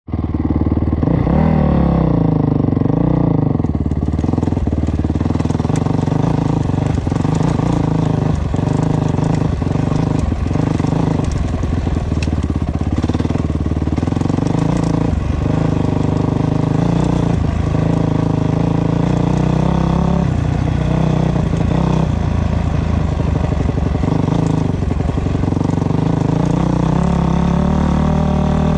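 Dirt bike engine running hard under changing throttle, its pitch rising and falling, with short dips every second or so as the throttle is chopped or gears are shifted.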